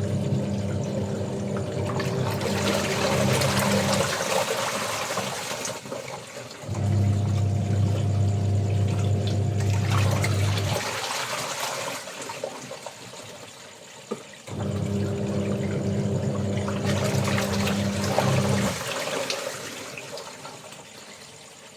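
Washing machine agitating a load: the motor hums in spells of about four seconds, turning the drum one way and then the other with pauses between, while the water and clothes swish inside.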